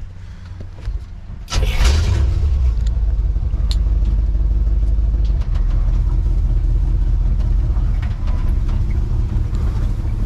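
1954 Chevrolet pickup's engine rising sharply about a second and a half in, then running loud and steady as the truck is pulled into position.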